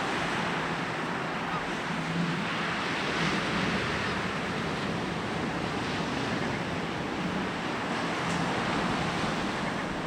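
Sea waves rolling in and washing onto a beach: a steady rushing surf that swells and eases gently.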